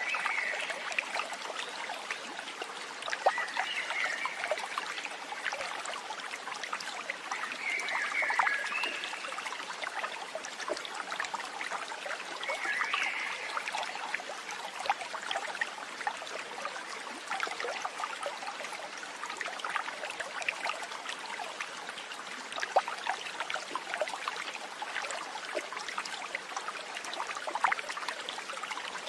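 Water trickling and splashing steadily, like a small stream. A short call near the same pitch comes back about every four to five seconds.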